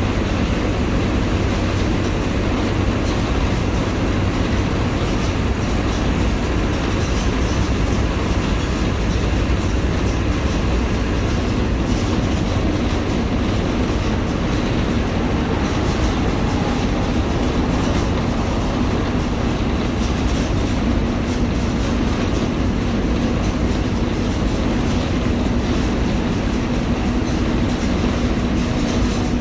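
Mercedes-Benz OF-1721 Bluetec 5 bus's four-cylinder turbodiesel engine running steadily under a dense rumble with rattling, a humming note coming up about two-thirds of the way in.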